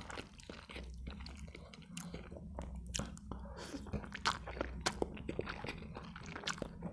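Close-miked chewing of a mouthful of instant noodles: soft wet mouth sounds with many small sharp clicks and smacks.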